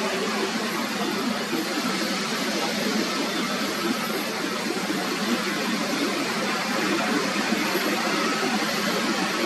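Airliner jet engines heard as a steady, even noise.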